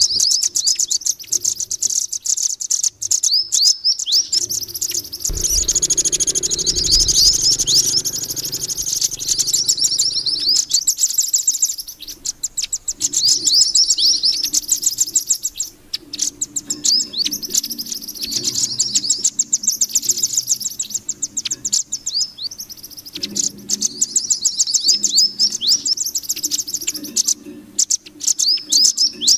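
Bird-lure recording of mantenan calls mixed with rambatan paruh merah (velvet-fronted nuthatch) calls: fast series of high, sharp chirps repeated in bursts, with a low hum underneath in places.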